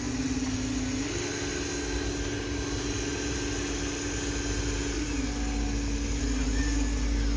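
Small electric motor of a handmade RC truck whining steadily. Its pitch steps up about a second in, drops back around five seconds, then wavers as the speed changes.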